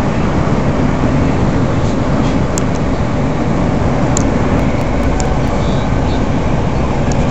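Steady rumble of running gear and engine heard from inside a TransPennine Express Class 185 diesel multiple unit travelling at speed, with a few light clicks.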